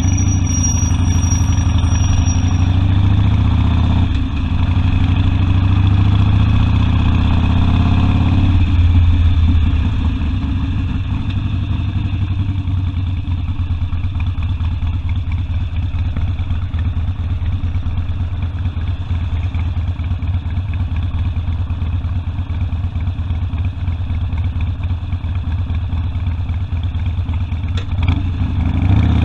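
Harley-Davidson Sportster's V-twin engine under way, louder and rising for the first eight or nine seconds with a short drop about four seconds in, then running steadily.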